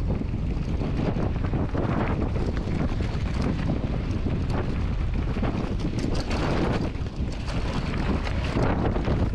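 Strong wind buffeting the microphone: a continuous, heavy low rumble that rises and falls with the gusts.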